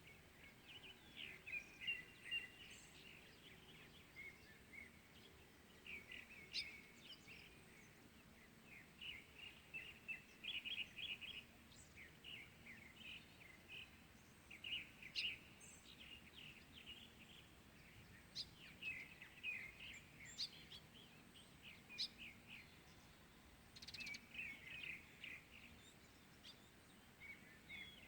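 Small birds chirping in quick twittering runs of short notes, coming in clusters every few seconds with brief lulls between.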